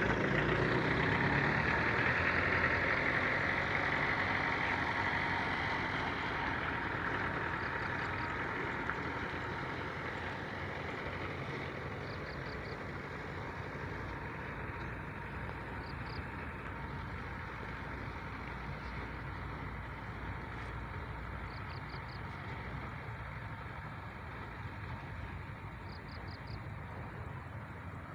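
Steady rumble of a passing passenger train, loudest at the start and slowly fading as it moves away. Short clusters of faint high chirps recur every few seconds.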